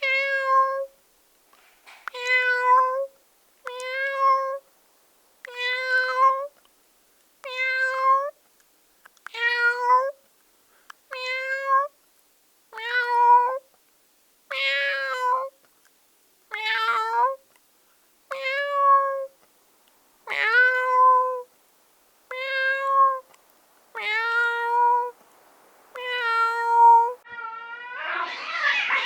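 Domestic cat meowing over and over, about one meow every one and a half to two seconds, each a short call that rises and then holds its pitch. Near the end a louder, rougher cat cry sets in.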